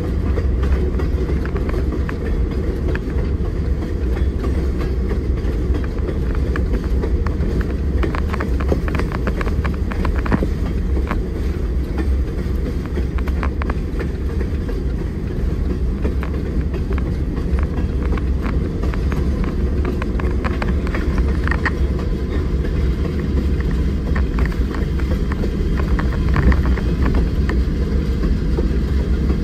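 Delmarva Central freight train's diesel locomotives and cars running along the track, a steady low rumble with scattered clicks and knocks.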